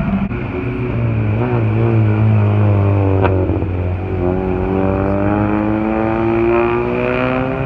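A car engine running, its pitch climbing steadily through the second half as it accelerates.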